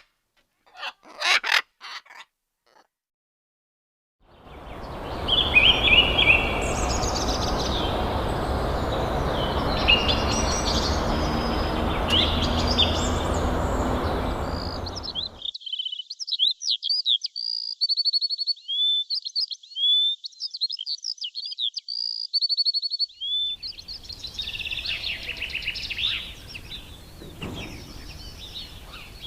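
Songbirds chirping and singing in high, quick chirps and trills, in a few separate stretches. The first stretch has a loud steady background noise under it, the middle one is clear, and the last has fainter noise under it.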